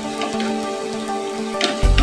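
Chicken and vegetables sizzling in a frying pan while wooden spatulas toss them, with a few light scrapes. Background music with steady held tones plays over it, and a deep bass comes in near the end.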